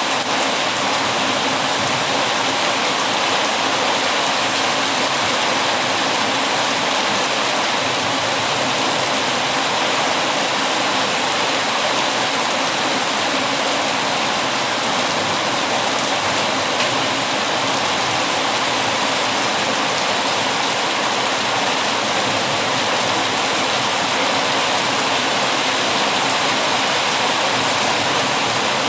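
Heavy rain falling in a steady, unbroken hiss with no change in strength.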